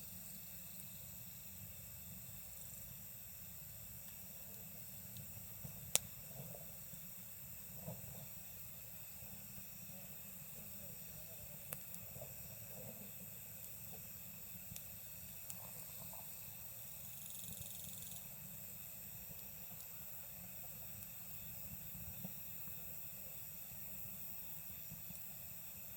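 Wood campfire crackling, with scattered sharp pops (the loudest about six seconds in), over a steady chorus of night insects such as crickets singing in several even high tones.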